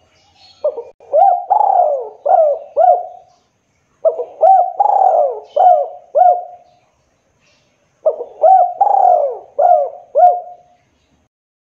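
Spotted dove (tekukur/derkuku) cooing: three repeated phrases of about five low swooping coos each, a few seconds apart.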